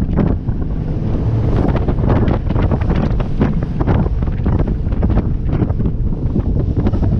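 Heavy wind buffeting on the microphone aboard a motorboat under way, steady throughout, over the rush of water and the boat's running noise.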